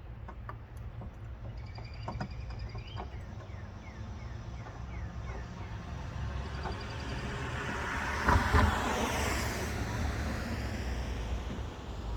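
A vehicle passing by, swelling to a peak about eight seconds in and then fading, over a steady low rumble. A few light clicks and birds chirping come in earlier.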